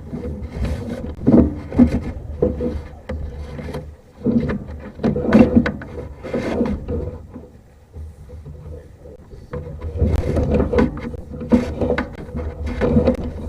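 Irregular knocks, clunks and scraping from sewer camera equipment being handled and its push cable worked through the drain pipe, with a low rumble underneath; it eases off for a couple of seconds past the middle.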